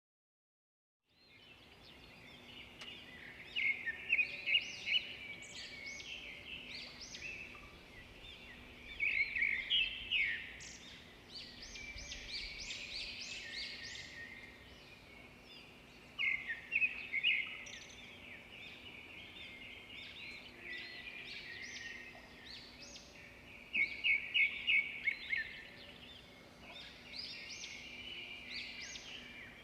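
Songbirds chirping and singing, with quick runs of rapid high notes every several seconds over a faint steady background. It begins about a second in, out of silence.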